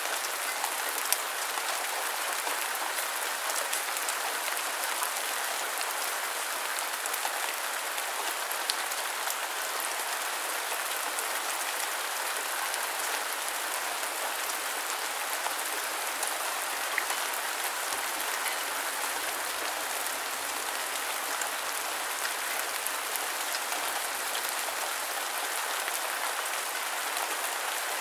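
Rain falling steadily: a dense, even patter, with an occasional louder single drop standing out.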